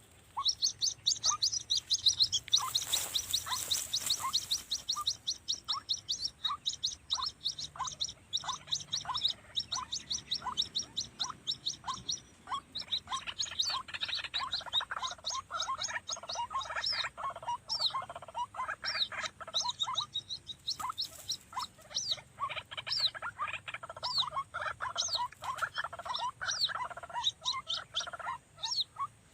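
White-breasted waterhen (ruak-ruak) calls: short falling notes repeated about once a second under a fast, high ticking series. From about thirteen seconds in they thicken into a busy chorus of overlapping calls. A brief rush of noise comes around three seconds in.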